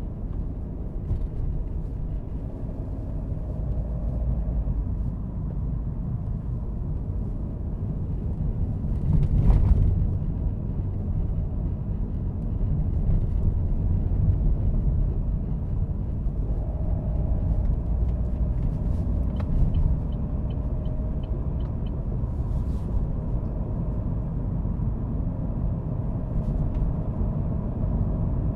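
A car driving, with steady low road and engine rumble. A single louder thump comes about a third of the way in, and a short run of light, evenly spaced ticks about two-thirds through.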